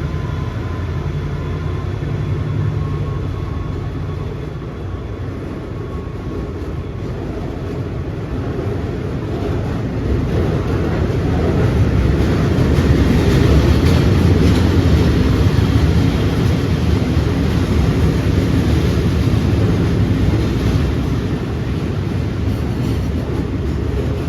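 A train running past on the track, its rumble building about a third of the way in, loudest around the middle and easing a little toward the end.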